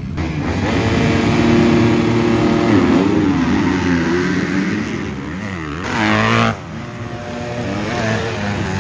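Dirt bike engines revving up and down through the gears on a track. One gets louder and rises in pitch about six seconds in, then drops off sharply.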